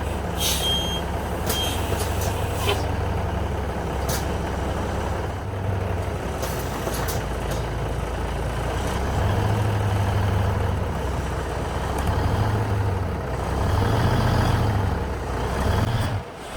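FMTV military truck's diesel engine running under load while pulling on a chained tree stump, revving up in several surges in the second half without tearing the stump free. A few short, sharp hissing or clanking sounds in the first few seconds.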